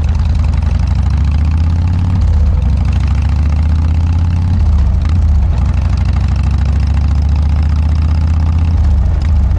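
Harley-Davidson Dyna's V-twin engine running loud through a Motorstage aftermarket muffler while riding. Its pitch climbs under acceleration and drops at each upshift, about two and four and a half seconds in, then climbs again.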